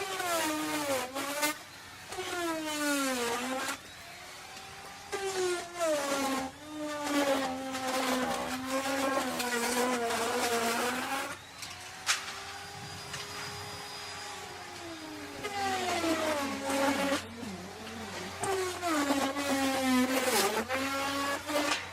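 Electric wood router cutting, its motor pitch sagging each time the bit bites into the wood and climbing back as the load eases, over and over. About halfway through it runs lighter and steadier for a few seconds before bogging down again in renewed cuts.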